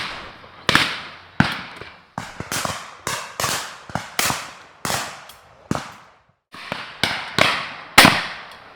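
Shotguns firing in a rapid, irregular volley from several guns, some close and loud and others fainter, about fourteen shots with each report trailing off in an echo, and a brief lull about six seconds in.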